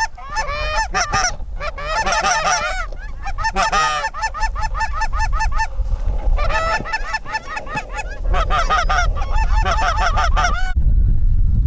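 Geese honking and clucking: rapid, overlapping calls in bursts, several at once. They stop suddenly near the end, leaving low wind rumble.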